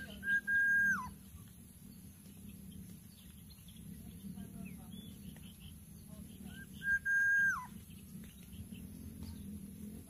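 A bird's clear whistled note, held for a little under a second with a quick rise at the start and a drop at the end, sounds twice about six and a half seconds apart, with faint short chirps between.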